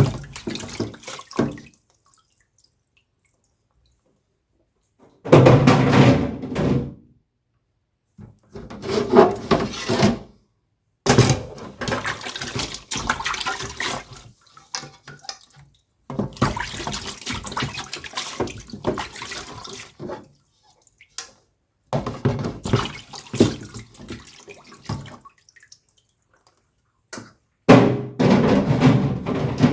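Water splashing and pouring during hand washing, in bursts of one to four seconds with silent breaks between them.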